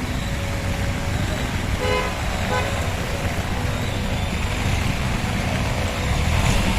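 Road traffic running steadily, engines and tyre noise, with two short vehicle horn toots about two seconds in.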